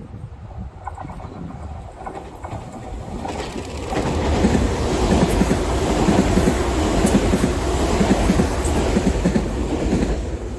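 Electric commuter train passing close by: its rumble builds over the first few seconds, runs loud with a rhythmic clickety-clack of wheels over rail joints for about six seconds, then falls away near the end.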